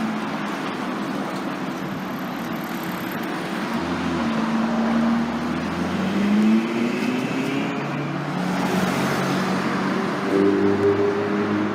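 Car engines and tyre noise in city street traffic. About four seconds in, an engine note climbs in pitch in steps as a car accelerates, and another climbs near the end.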